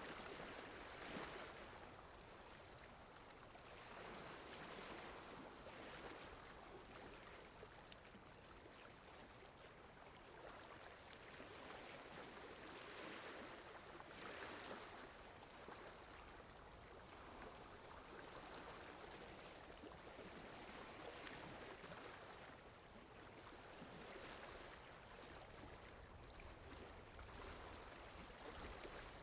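Soft, steady rain: an even hiss that swells and eases gently every few seconds.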